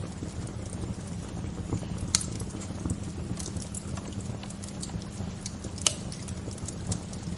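Wood fire crackling, with many irregular sharp pops and snaps over a steady low rumble. Two pops, about two seconds in and just before six seconds, are louder than the rest.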